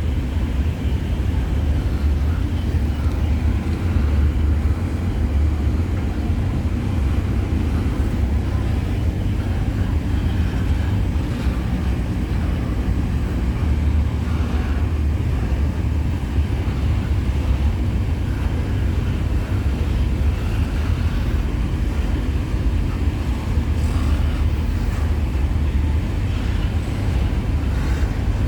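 Steady low rumble of a distant freight train approaching, still far off.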